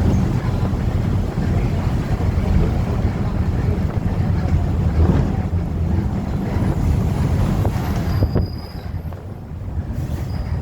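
Steady low rumble of wind on the microphone mixed with street and vehicle noise. It dips briefly about eight seconds in.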